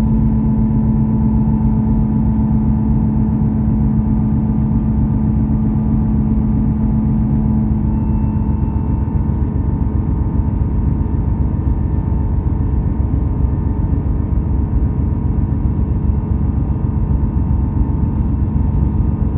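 Diesel passenger train running, heard from inside the carriage: a loud, steady rumble of engine and wheels with a constant hum over it.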